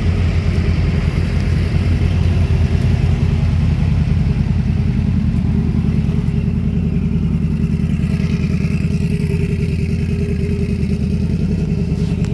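Car engine idling steadily, a deep, rapidly pulsing exhaust note.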